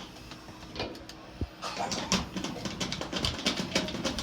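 Clicks and rattles of hands working on the dryer's sheet-metal panels and fasteners: a few isolated clicks, then a quick, busy run of clicking from a little under two seconds in.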